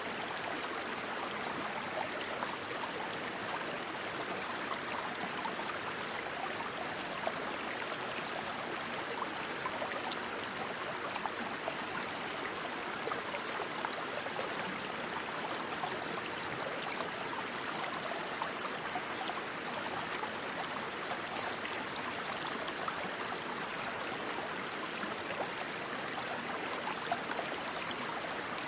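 Rushing stream water, a steady, even flow. Short high chirps are dotted over it, bunching into quick trills near the start and again past the middle.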